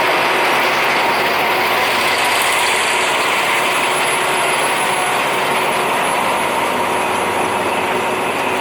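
Diesel train on the Death Railway line passing close by, its engine and wheels making a loud, steady running noise.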